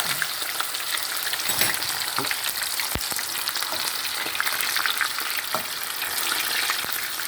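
Food frying in hot grease: a steady sizzling hiss with scattered crackles, and a single low knock about three seconds in.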